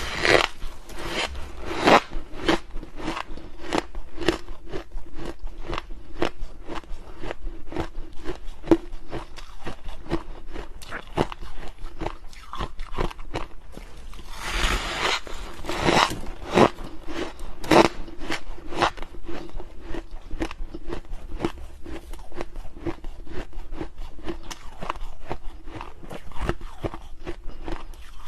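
Close-up crunching and chewing of freezer frost ice, a dense run of sharp, irregular crackles with louder bites every so often, over a faint steady hum.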